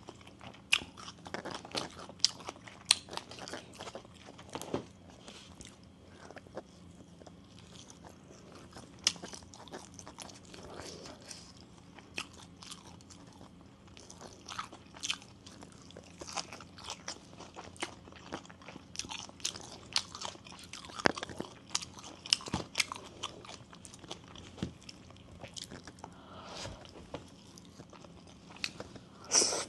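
Close-up eating sounds: a person chewing and biting bamboo-shoot soup (sup no mai) with sticky rice, with irregular crunchy clicks and wet mouth sounds.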